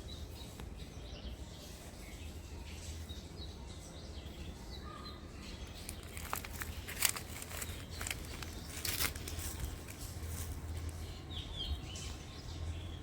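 Small birds chirping faintly over a steady low outdoor rumble, with a few short rustling noises in the middle.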